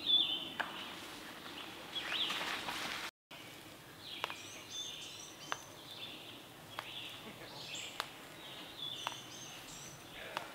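Wild birds chirping and calling repeatedly, with a few sharp ticks in between; the sound cuts out for an instant about three seconds in.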